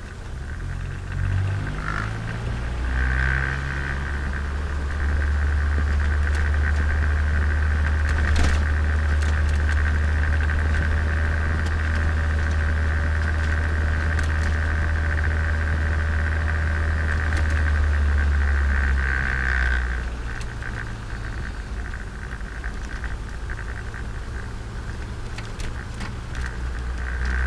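Turbocharged Nissan Micra engine and drivetrain heard while driving: the pitch climbs in steps over the first few seconds, then settles into a steady loud drone. The drone drops away about two-thirds in and builds again near the end.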